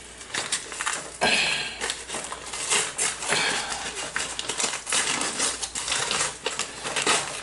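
Plastic outer bag of a military field ration being opened and handled, with irregular crinkling and rustling. A loud rip or crackle comes about a second in, followed by ongoing rustles of the packaging.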